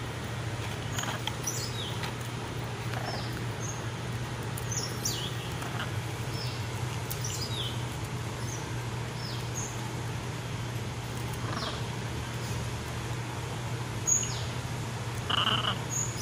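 Birds chirping: many short, high chirps, each falling in pitch, scattered through, over a steady low hum. Near the end come a sharp click and a louder call.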